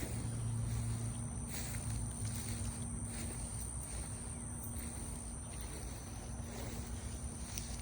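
Steady outdoor insect chorus, a continuous high-pitched buzz, over a low rumble and a faint steady hum.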